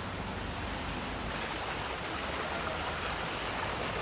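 Floodwater rushing along a city street after a downpour: a steady rushing noise that grows brighter about a second in.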